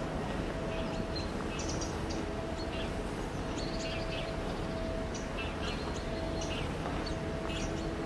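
Small birds chirping in short calls scattered throughout, over a steady low rumble and a faint on-and-off hum.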